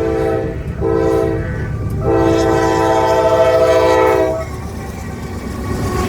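Locomotive air horn sounding a chord of several notes: the end of one blast, a short blast, then a long blast of about two seconds. Underneath is the steady rumble of the passing train.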